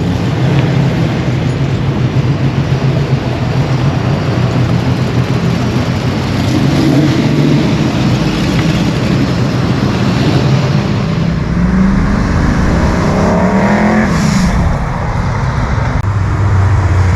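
Loud modified car engines rumbling at low speed, with one engine revving up, its pitch rising and falling, between about twelve and fourteen and a half seconds in; a deeper engine note grows louder near the end.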